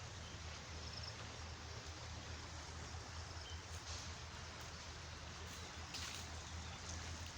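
River water flowing steadily, an even rushing noise with a low rumble underneath.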